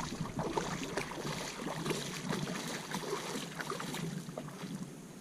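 Water splashing and lapping around a kayak, with many small irregular clicks and knocks.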